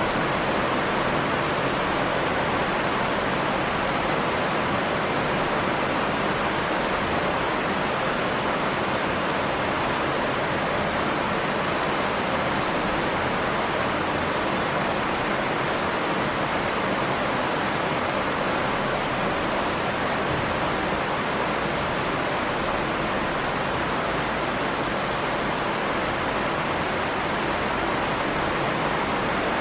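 Steady rain falling, an even hiss without separate drop sounds or thunder.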